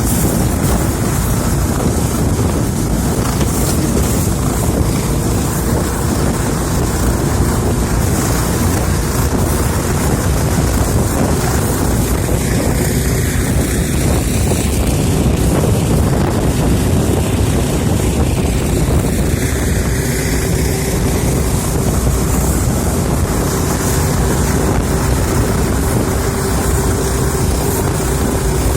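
A motorboat running at speed over the sea, with wind buffeting the microphone and water rushing past the hull. The noise stays steady throughout, with a faint steady engine tone in the second half.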